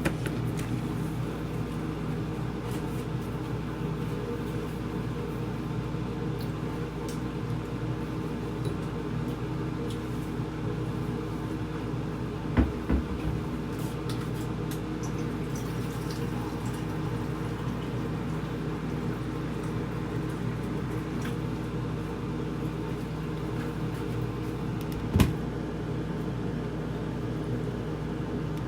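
Steady low hum of a running kitchen appliance, with a brief knock about halfway through and another near the end.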